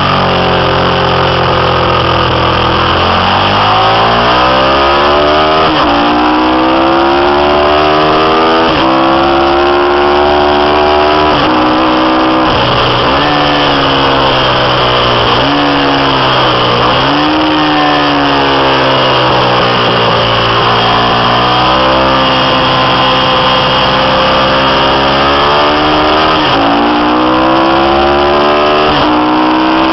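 Ducati 750's 90-degree V-twin engine running hard on a track, its revs climbing and dropping again and again as the bike accelerates, changes gear and slows.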